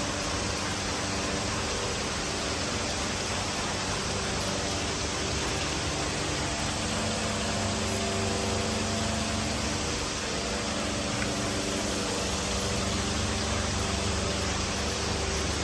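Steady mechanical noise with a low hum running through it, without strokes or impacts.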